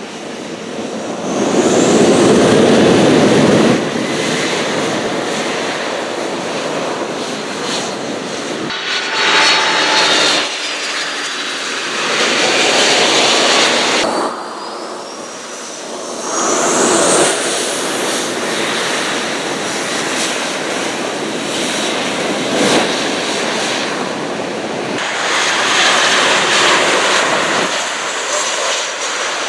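Aircraft engines running loud, with the level jumping up and down abruptly several times. A thin rising whine comes about a second in and again about sixteen seconds in.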